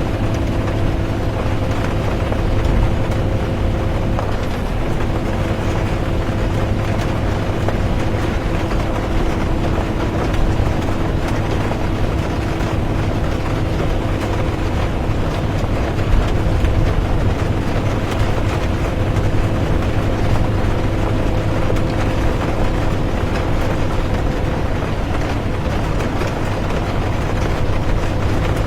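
Interior of a moving bus: steady low engine and road rumble with a constant drivetrain hum, under an even hiss of rain.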